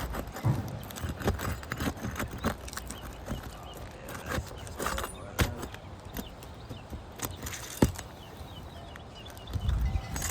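Irregular scraping, clicks and knocks of an asphalt shingle being lifted and pried up to reach its nails, with one sharp knock late on.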